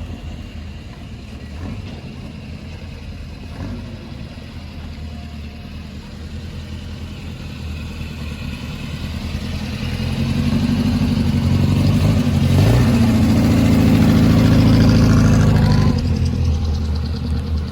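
Morgan Plus 4's Triumph four-cylinder engine running on the road, then pulling harder and louder about ten seconds in, with a short break partway, before easing off near the end.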